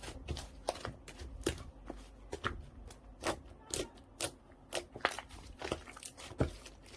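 Slime being squished and poked by hand, making irregular sharp wet clicks and pops, two or three a second.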